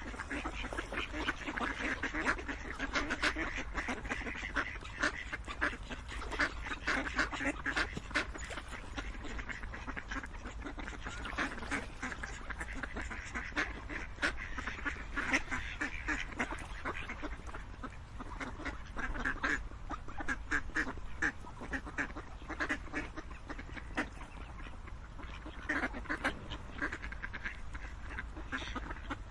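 A group of ducks quacking continuously, many short overlapping calls with louder spells, over a steady low background hum.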